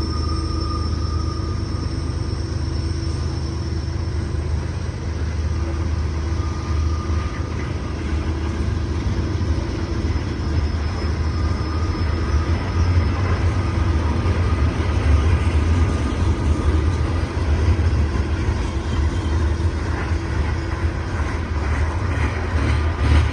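CSX coal train's cars rolling past on the rails: a steady rumble of steel wheels with faint, thin, steady wheel squeals above it. It grows louder and more clattering over the last few seconds.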